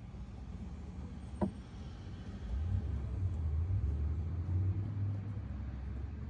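Low, steady rumble of a vehicle engine, swelling about two and a half seconds in. A single sharp click sounds about a second and a half in.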